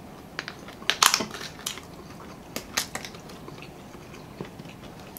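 Close-up crunching and chewing of crispy fried chicken: irregular crackles as the coating breaks, loudest about a second in and again near three seconds.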